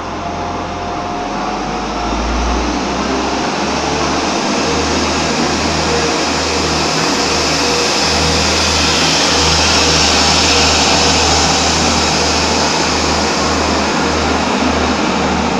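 Train passing close alongside the platform: a loud, continuous rush of wheel and air noise that swells toward the middle, with a faint steady whine.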